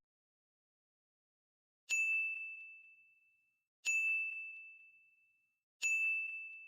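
Three identical high, bell-like dings, evenly spaced about two seconds apart, each struck sharply and ringing out until it fades.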